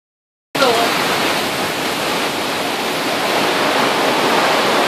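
Heavy rainstorm with flash-flood runoff: a loud, steady rush of rain and running water, starting about half a second in.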